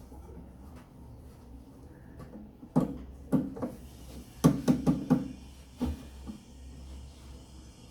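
A series of about eight sharp knocks on the washing machine's parts during repair work: a few spaced knocks a little past two seconds in, then a quick cluster of them around the middle. A steady low hum runs underneath.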